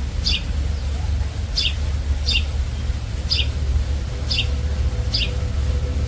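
A bird repeating a short, high, falling chirp about once a second, over a steady low rumble.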